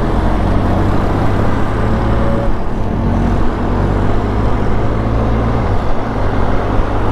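Benelli TRK 502X's 500cc parallel-twin engine running steadily while the motorcycle is ridden through traffic, with a slight change in engine note about two-thirds of the way through.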